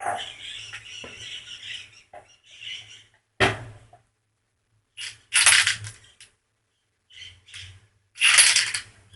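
Intermittent scraping and clinking of metal washer parts and hand tools during disassembly, in separate bursts of a second or less, over a faint steady low hum.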